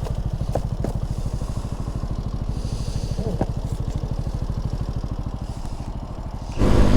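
Small single-cylinder mini motorcycle engine running steadily with an even low pulse, getting suddenly louder near the end.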